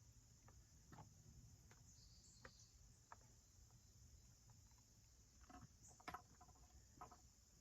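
Near silence with faint, scattered clicks and taps over a low hum and steady hiss, a few of them bunched together about five and a half to six seconds in.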